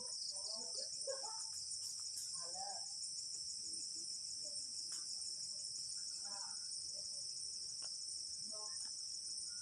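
Dense insect chorus chirring steadily at a high pitch with a fine, rapid pulse. Faint voices come through a few times underneath.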